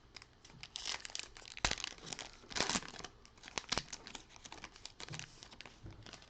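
A football trading-card pack's foil wrapper being torn open and crinkled: a run of irregular sharp crackles, loudest around the middle.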